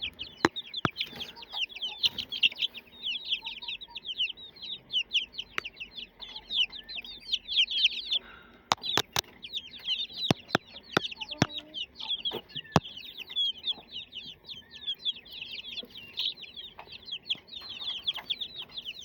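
A flock of young chicks peeping continuously, many short falling peeps overlapping, with sharp clicks now and then.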